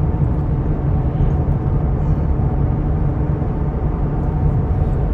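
Steady low road and engine rumble heard inside a car's cabin while driving at a little over 50 mph.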